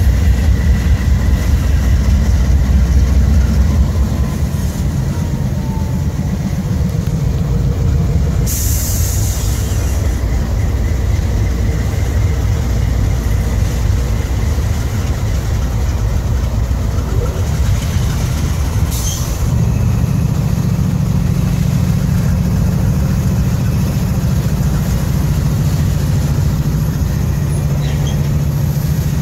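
Loaded freight train of covered hopper cars rolling past, its wheels making a steady heavy rumble on the rails, with two brief high hisses, about a third and two-thirds of the way in. From about two-thirds through, a steady pitched drone joins as Norfolk Southern diesel-electric locomotives coupled into the train approach.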